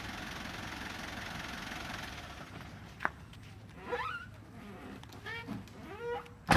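Vehicle engine running steadily, fading out about two and a half seconds in. A single click follows, and a sharp bang at the very end is the loudest sound.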